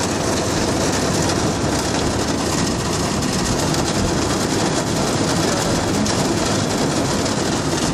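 Heavy rain pelting a car's roof and windows, heard from inside the car as a dense, steady hiss.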